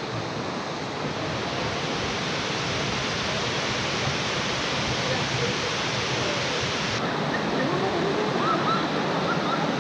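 Waterfall pouring, a steady even rush of falling water, with faint voices coming in near the end.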